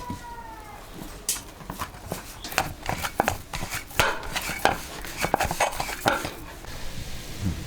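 A drawn-out call falling in pitch fades in the first second. Then comes an irregular run of sharp clicks and knocks, like clattering utensils, for about five seconds.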